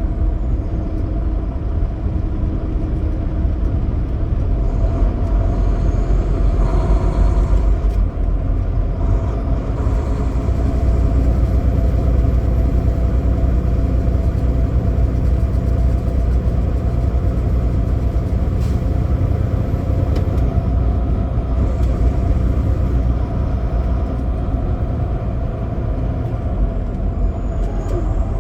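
Semi truck's diesel engine running with steady road rumble, a constant low drone.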